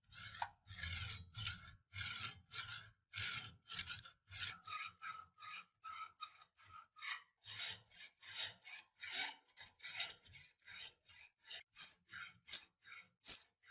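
Hand strokes of an abrasive (a file or abrasive paper) rubbing back and forth on the metal of an antique wrench being restored. The short scraping strokes come steadily, about two to three a second, a little quicker and sharper near the end.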